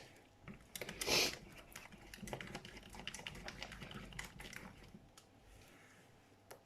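Pan of thick cheese sauce cooking on the hob and being worked with a utensil: soft, irregular clicks and taps, with a brief louder scrape about a second in.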